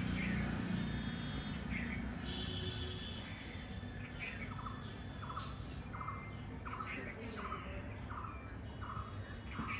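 Birds chirping and calling in the tree canopy. From about halfway through, one bird repeats a short note about twice a second under higher, quicker chirps.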